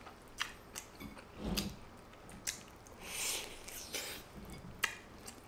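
Soft crunching and clicking of someone biting into and chewing a crispy batter-coated hotdog, a run of small scattered clicks.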